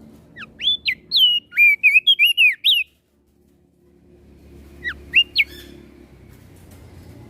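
Crested dark-eye (opior jambul) singing: a quick run of high, sweeping whistled notes lasting about two and a half seconds, then a short burst of three notes about two seconds later.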